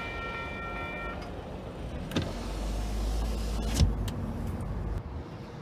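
A car's power window motor running for about three seconds, with a click as it starts and a knock as the glass seats. Before it, a few thin steady tones stop about a second in.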